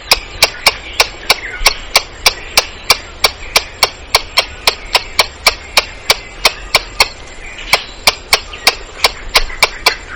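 Squirrel alarm calls: a rapid run of sharp, repeated chips, about three a second, with a brief pause about seven seconds in.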